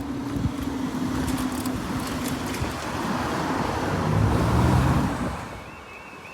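A car drives over the level crossing, loudest about four to five seconds in, then fades. Near the end the crossing's fast two-tone yodel alarm starts, warning that the barriers are about to come down.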